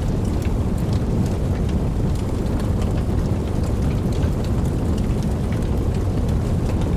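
Steady rainfall with many scattered individual drop ticks, over a deep continuous rumble of distant thunder.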